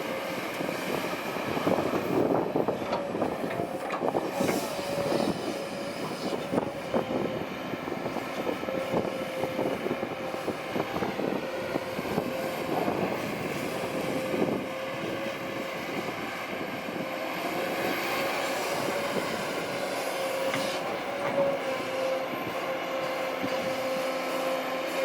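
Kobelco SK200-8 excavator at work: the engine runs steadily with a constant whine over it. Irregular metal clanks and rattles come in clusters, most thickly in the first third.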